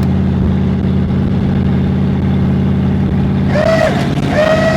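Cadillac engine of a 1930 rat rod running steadily under way, a low, even drone. Near the end a few short higher-pitched sounds ride over it.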